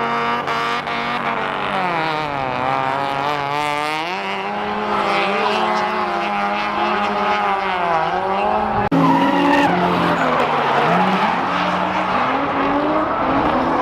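Drift cars on track: engines revving hard, their pitch repeatedly rising and falling, with tyre squeal from the sliding cars. The sound changes abruptly about nine seconds in.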